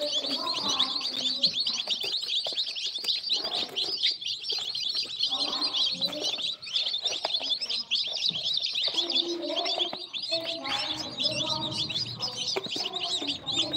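Many newly hatched baby birds chirping together in a continuous stream of rapid, high-pitched cheeps, with lower sounds coming and going underneath.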